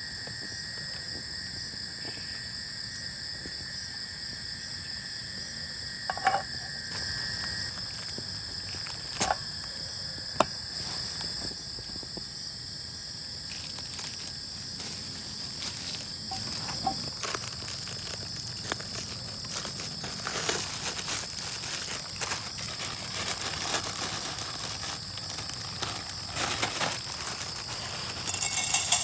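Steady high-pitched chorus of crickets and other insects, with a few sharp knocks and, from about halfway, a busy run of small clicks and rustles of things being handled, louder near the end.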